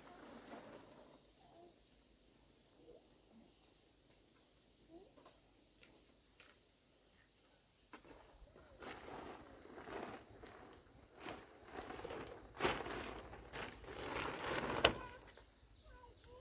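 Steady high-pitched chorus of insects trilling throughout. From about halfway, rustling and handling noises with scattered clicks come in, and two sharp knocks near the end are the loudest sounds.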